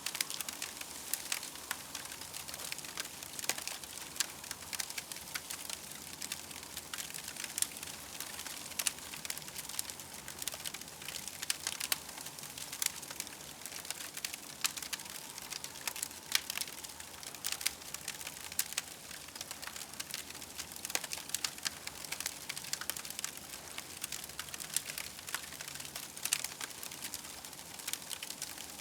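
Campfire crackling steadily, with many small irregular pops and snaps over a soft hiss.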